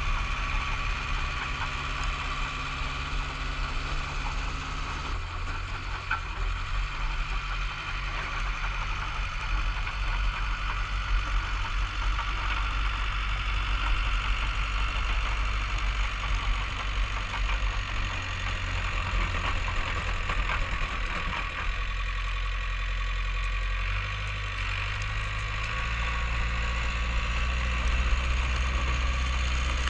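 Bulldozer's diesel engine running steadily while clearing snow, its pitch shifting several times as engine speed changes, over a constant mechanical rattle.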